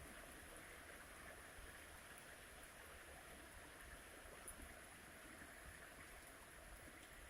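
Faint, steady rush of wind, with a low fluctuating rumble of wind buffeting the microphone.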